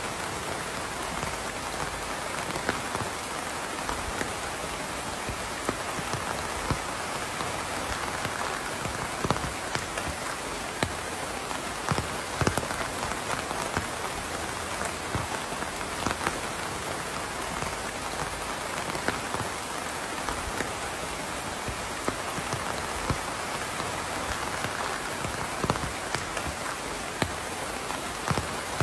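Steady rain falling on a surface, an even hiss with individual heavier drops ticking and plinking irregularly through it.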